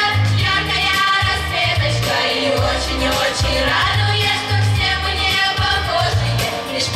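A song performed live: singing over amplified accompaniment with a strong bass line.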